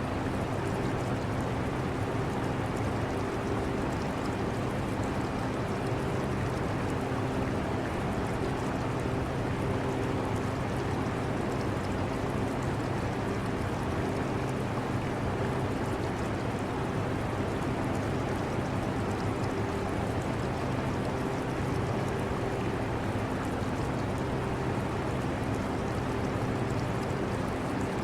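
Portable air conditioner running steadily, a constant fan rush with a low hum in it, blended with the flowing water of an aquarium.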